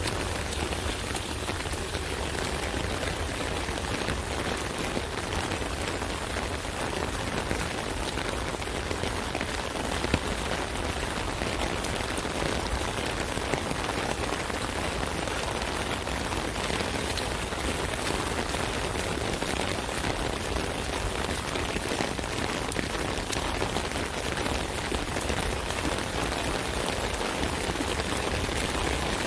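Rain falling steadily on an umbrella, a dense even patter of drops on the canopy, with one sharper drop tick about ten seconds in.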